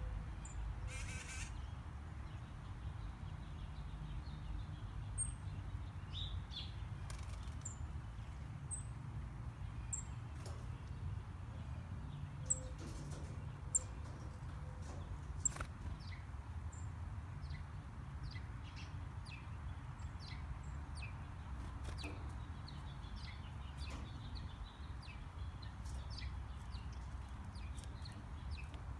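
Birds chirping and calling in short, high notes scattered throughout, over a steady low rumble, with two sharp clicks about halfway through.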